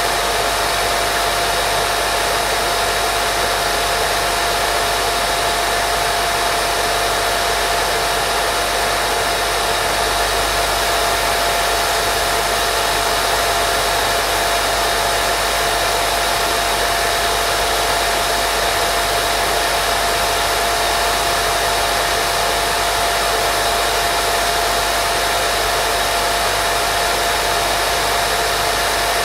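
Steady white noise for baby sleep, unchanging throughout, with a constant tone running through the hiss.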